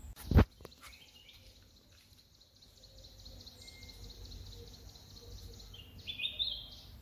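A single sharp knock about half a second in, then birds calling: a fast, even high trill for several seconds and a few short stepped high chirps near the end.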